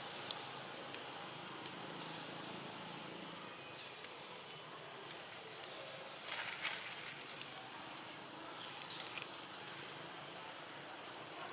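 Outdoor ambience: a steady insect drone with short, high chirping calls now and then, a brief rustle about six seconds in, and a louder high chirp about nine seconds in.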